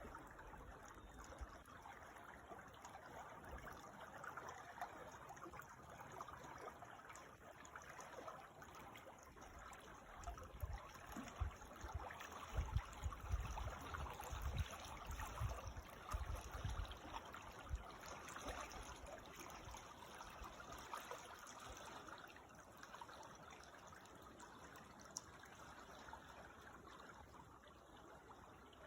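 Creek water trickling and babbling steadily, faint, with irregular low rumbles in the middle stretch.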